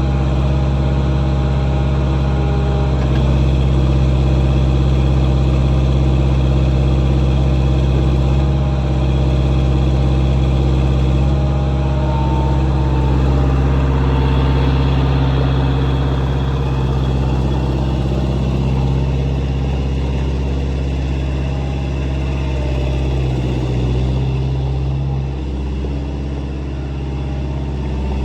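Swinger 3000 compact wheel loader's four-cylinder John Deere engine running steadily at a fairly constant speed, easing off a little in the last third.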